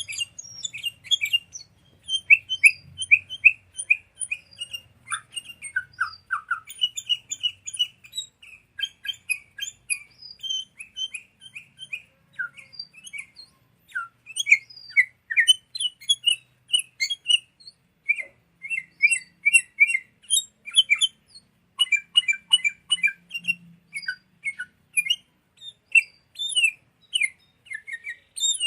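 Sooty-headed bulbuls (kutilang) calling: dense, rapid runs of short chirping notes with brief gaps, a lure recording of the species' song.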